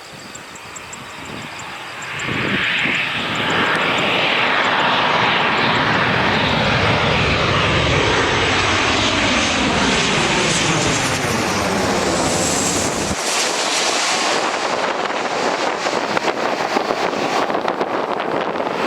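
Boeing 737-800's CFM56-7B jet engines passing close on landing approach: the jet noise swells suddenly about two seconds in and stays loud, with a falling whine as the plane goes by. The deep rumble drops away about two-thirds through, leaving a hissing rush with wind on the microphone.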